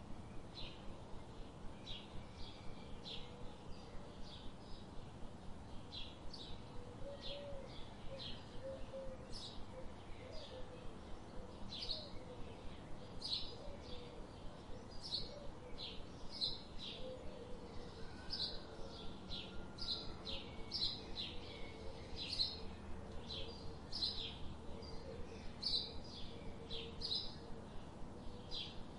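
Forest ambience of small birds chirping, short high chirps repeating about twice a second over a soft, steady background hiss, with faint lower warbling calls.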